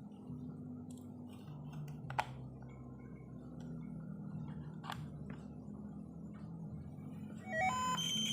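Samsung 21-inch CRT television being powered up: a low hum with two sharp clicks, then near the end a short run of rising tones and a steady high-pitched whine sets in. The whine is the fault sound, which the repairman puts down to a failing flyback transformer and horizontal output stage.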